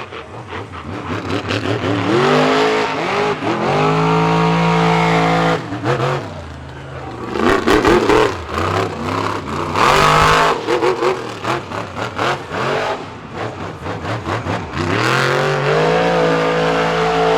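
Monster truck engine revving hard in repeated bursts. It climbs to a held high rev about two seconds in, drops back around six seconds, revs again from about eight to eleven seconds, and climbs once more near the end, with a choppy, lumpy idle between the bursts.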